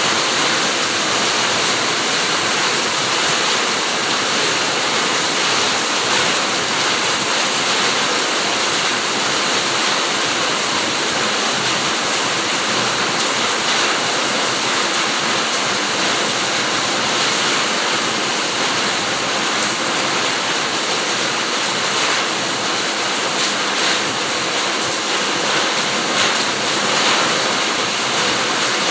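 Steady heavy rain falling on a fruit garden, an even hiss with faint pattering ticks and no let-up.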